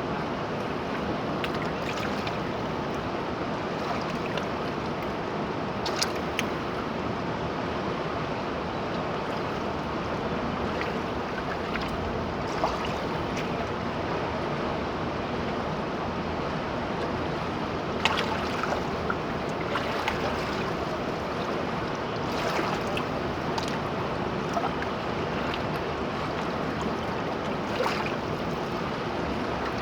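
River water rushing steadily, with scattered short splashes or ticks.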